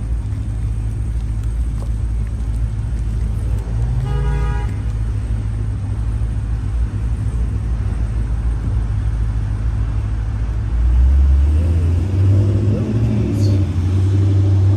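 Steady road-traffic rumble, with a short car horn toot about four seconds in and a vehicle passing close by, louder, near the end.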